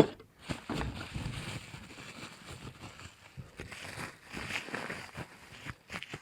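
Rustling and light clicking of small parts and packaging being handled, with a sharp click at the very start.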